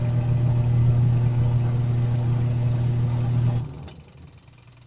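Wash motor of a CAMEL twin-tub washing machine running with a loud, steady electric hum. The motor will not self-start, and a bulged, likely open start capacitor is later found to be the cause. The hum cuts off about three and a half seconds in, followed by a short click.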